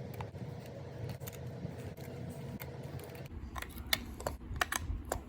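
A steady low hum, then from about three seconds in a run of sharp, irregular clicks and taps as the multimeter's plastic case is reassembled and its small screws are driven back in.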